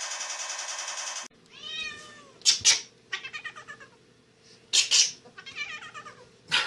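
A rapid rattling noise cuts off suddenly about a second in, then a cat meows repeatedly in a series of rising-and-falling calls, with two louder, harsher cries among them.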